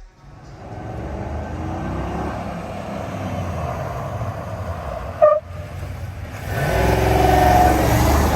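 A car engine running, getting louder with rising revs from about six and a half seconds in. A short, sharp high chirp sounds about five seconds in.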